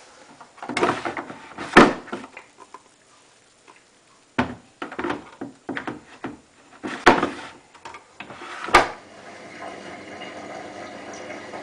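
A scattering of sharp knocks and clatters, then about nine seconds in a steady rush of water starts as the Hotpoint WT960 washing machine begins filling.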